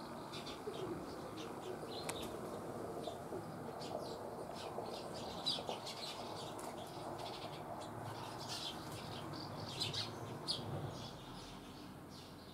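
Small birds chirping: many short, high chirps in quick succession over a steady low background noise, fading near the end.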